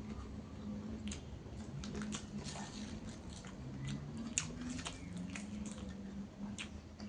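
A person chewing and biting food close to the microphone: irregular crisp crunches and wet mouth clicks from eating raw lalapan vegetables and fried fish.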